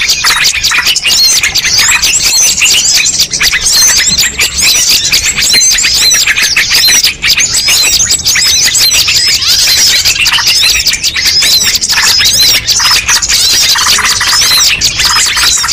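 Dense chorus of many small birds chirping and squeaking over one another without a break: a bird-lure recording played to draw in wild birds.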